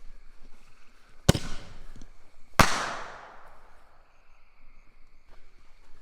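Consumer mini artillery shell fired from its mortar tube: a sharp bang as it lifts off about a second in, then the louder burst of the shell overhead just over a second later, trailing off slowly.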